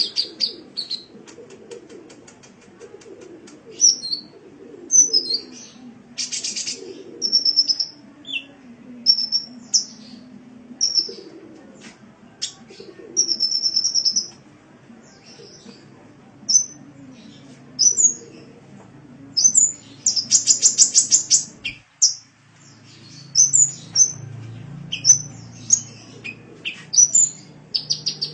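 Sunbird ('kolibri') song: a string of quick, high-pitched chirps and short twittering phrases, broken twice by a dense, rapid buzzy trill, about six seconds in and again near twenty seconds.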